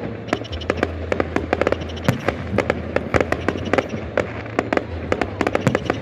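Fireworks display going off: a rapid, irregular run of bangs and crackles, several a second.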